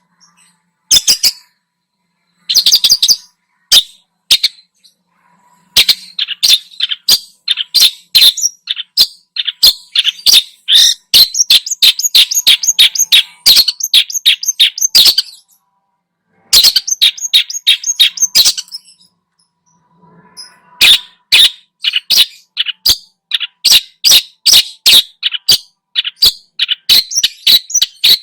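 Long-tailed shrike (cendet) singing loudly: rapid chattering runs of sharp, high notes in long phrases broken by a few short pauses.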